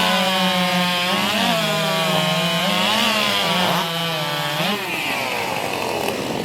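Two-stroke racing chainsaw running at full revs while cutting through a log, its pitch dipping slightly under load, for about five seconds; near the end the revs fall away.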